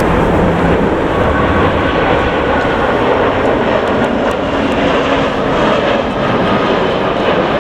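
Jet airliner engines running loud and steady at close range, with a faint whine over a dense rushing noise.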